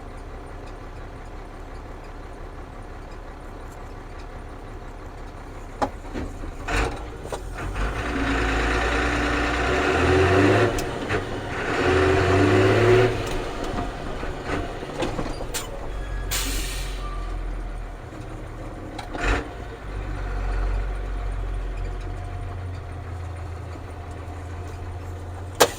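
Ford CF7000 truck's 6.6-litre Brazil diesel running at a low steady hum, then revving up twice in a row about a third of the way in as it pulls through the gears. A short sharp hiss comes about two-thirds through, followed by a steady engine drone.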